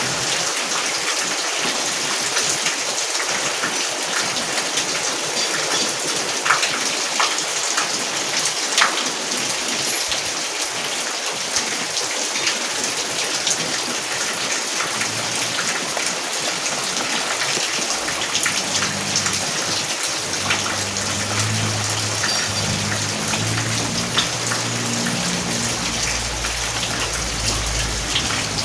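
Steady heavy rain falling on a surface, a continuous hiss dotted with the ticks of single drops. A low rumble joins in about halfway through and grows stronger near the end.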